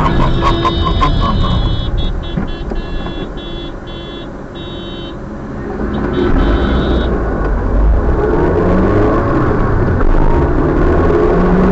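A tractor's horn beeping repeatedly in quick short toots for the first five seconds, then once more briefly about six seconds in, over the steady running of a vehicle engine and road noise.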